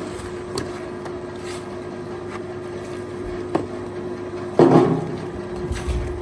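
A motor hums steadily on one tone. Over it come a few light knocks and one heavy thump about four and a half seconds in.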